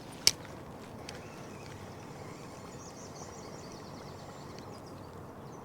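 A single sharp click or knock about a quarter second in, and a fainter one about a second in, over steady low outdoor background noise with faint high chirping in the middle.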